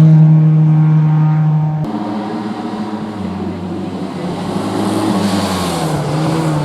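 Historic rally car engine held at high, steady revs, loud and close. About two seconds in it gives way abruptly to another rally car's engine, farther off at first, its revs rising and dipping through gear changes as it comes closer.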